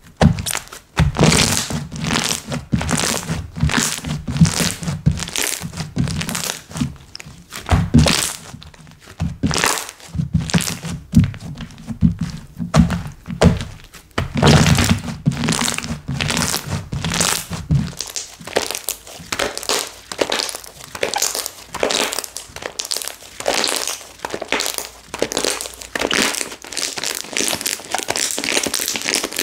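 Slime being squished and pressed by hand, a steady run of sticky pops and thunks. About two-thirds of the way through the low thumps drop away and it turns to a denser crackle.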